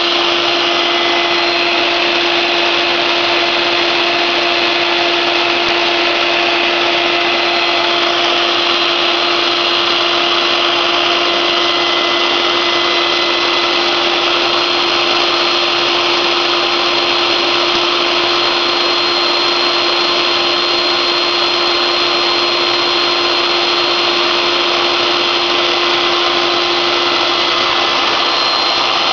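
CNC router spindle running steadily: a constant whine over a loud, even hiss.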